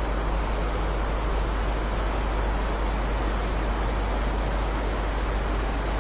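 Steady heavy rain: an even, unbroken hiss with a deep rumble underneath and no single drops or thunder standing out.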